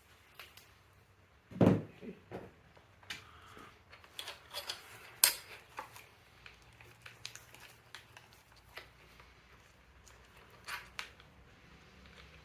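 Metal parts and hand tools clinking and knocking as they are handled, in short irregular clicks, with one heavier thump a little under two seconds in and a sharp click about five seconds in.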